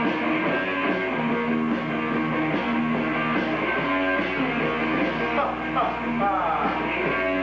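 Rock band playing in a recording studio: electric guitar and bass working a repeating riff, with bending, gliding guitar notes about two-thirds of the way through.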